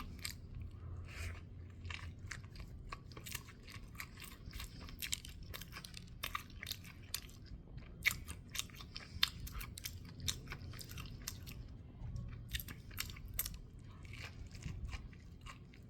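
A person chewing a mouthful of crispy deep-fried chicken sandwich, with many small crunches and wet mouth clicks throughout.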